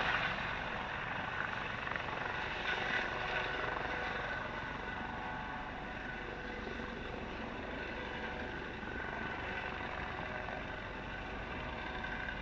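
Eurocopter AS365N3 Dauphin helicopter running steadily, its twin turbines and rotors giving a continuous whine of several tones over the rotor noise, easing slightly after the first few seconds.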